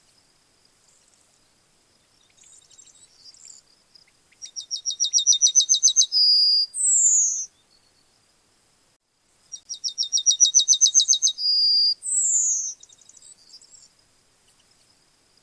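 Yellowhammer singing two songs, each a quick run of about a dozen identical high notes that ends in two longer notes, the last sliding downward. Faint chirps and a thin high background tone sit between the songs.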